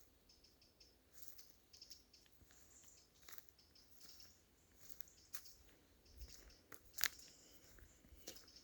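Faint footsteps crunching on dry leaves and twigs of the forest floor, about one step a second, with a sharper crunch about seven seconds in.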